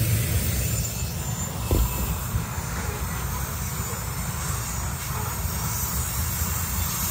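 Freight train rolling past with its mid-train diesel locomotives, a steady low rumble. A single dull thump about two seconds in.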